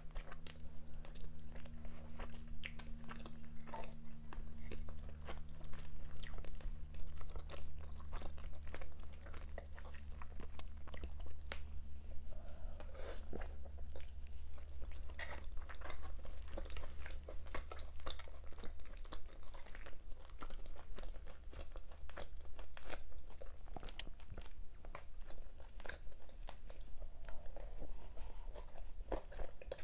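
Close-miked eating sounds: irregular wet chewing and biting with mouth clicks and occasional crunches, over a steady low hum.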